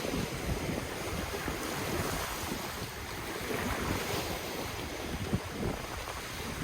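Ocean waves washing on the shore: a hiss of surf swells about two seconds in and eases off, over an uneven low rumble of wind buffeting the microphone.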